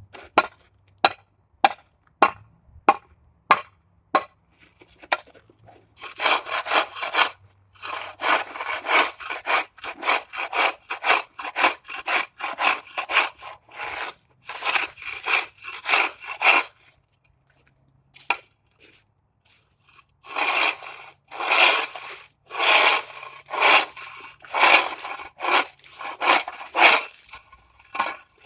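Ice being broken up by hand: sharp strikes on ice about twice a second, then quick rhythmic scraping strokes of a hand tool across the ice, pausing briefly partway through before the scraping resumes.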